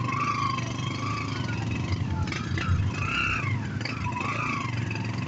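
Motorbike engine running steadily on the move, with the pitch rising and falling a little.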